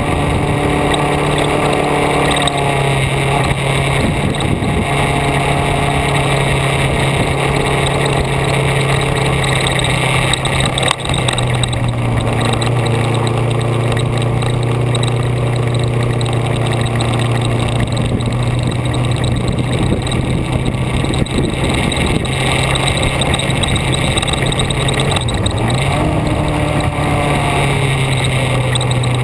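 Vehicle engine running at a steady speed, heard on board with steady wind and road noise; its note drops a little about a second in and rises again near the end as engine speed changes.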